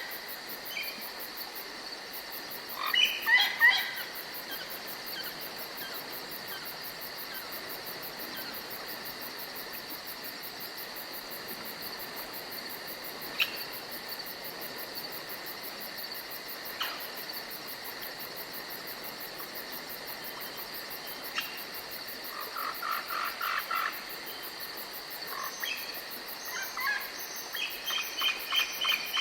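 Forest ambience: a steady high-pitched buzz, with a short burst of bird calls about three seconds in and a run of rapid pulsed calls and chirps over the last seven seconds.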